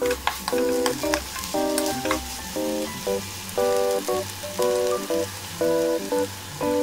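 Onion, green onion and king oyster mushrooms sizzling in a hot oiled pan while being stirred with a wooden spoon, with soy sauce spooned in partway through. Light background music with regularly repeated chords plays over the sizzling.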